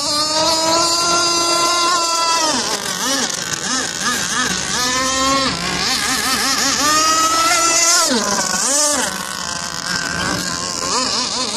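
Motorboat engine running hard under way, its pitch holding steady and then dropping and climbing back several times as the throttle is eased and reopened, over a hiss of wind and water.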